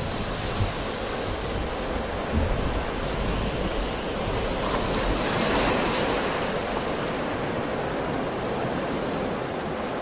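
Sea waves breaking and washing in, a continuous surf noise that swells about halfway through as a wave breaks.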